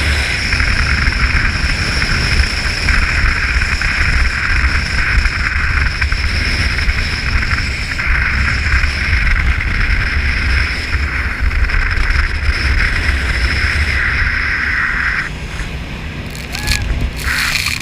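Jet boat running at speed: a steady low engine drone under a loud rush of wind and water. About fifteen seconds in the rushing noise cuts off suddenly and the level drops, as if the boat slows, with a few short clicks near the end.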